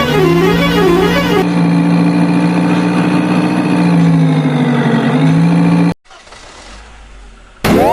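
Added toy-vehicle sound effects: a wavering siren-like wail for about the first second and a half, then a steady engine drone that dips in pitch briefly and cuts off suddenly about six seconds in. A short rising sweep comes near the end.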